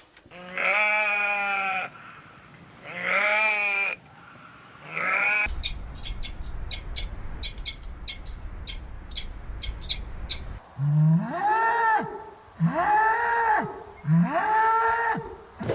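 Cattle mooing: several long calls, three in the first five seconds and three more near the end that rise and fall in pitch. In between, a stretch of regular sharp clicks, two or three a second, over a low hum.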